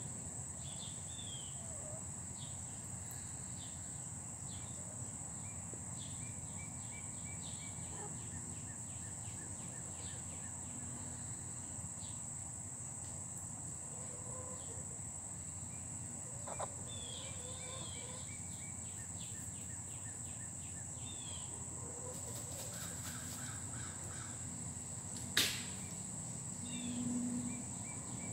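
Backyard ambience: a steady high-pitched hum runs under scattered short bird chirps. There is a single sharp click about 25 seconds in and a brief low hum just after it.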